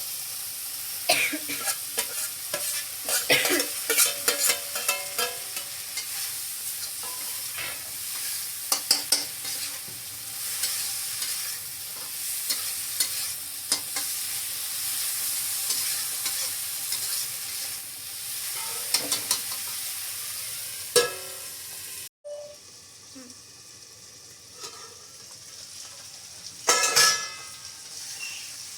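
Beans sabzi frying in a pan with a steady sizzle, and a spoon stirring and scraping against the pan in repeated clatters. About two-thirds of the way through the sound cuts out suddenly and comes back quieter, with another short burst of stirring near the end.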